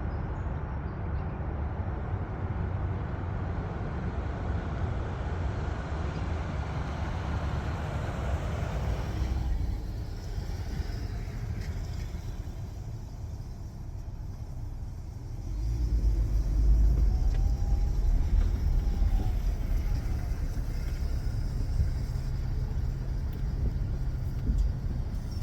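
Motor vehicle driving, a steady low road-and-engine rumble. It changes about ten seconds in, then grows louder and deeper from about fifteen seconds.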